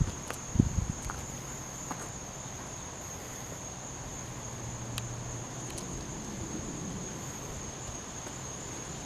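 Insects trilling in one steady, high-pitched, unbroken note, with a low thump about half a second in and a few faint clicks.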